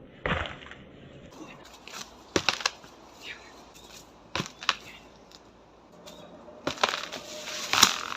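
Dry wood cracking and knocking in a series of sharp separate hits, one to two seconds apart, the loudest near the end.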